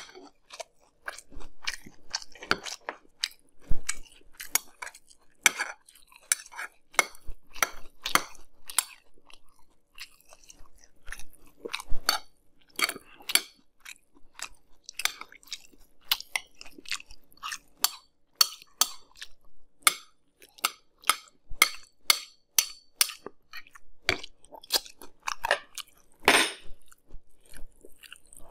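Close-miked chewing of a mouthful of Fruity Pebbles cereal in milk: crisp, wet crunches a few times a second, with a short pause near the middle.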